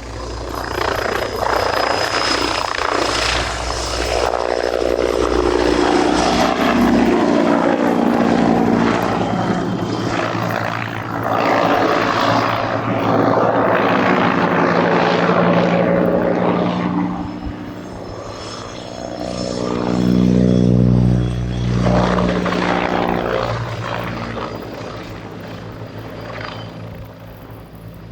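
AH-129D Mangusta attack helicopter flying low passes, its rotors and twin turboshaft engines loud. The sound swells and fades several times as it goes by, the pitch dropping on each pass.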